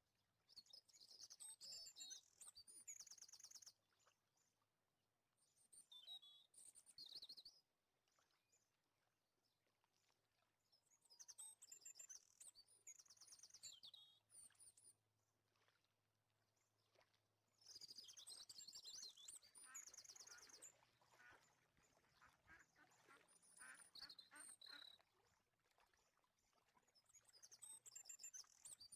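Faint bird chirping and trilling in short bursts of a few seconds, with quiet gaps between them.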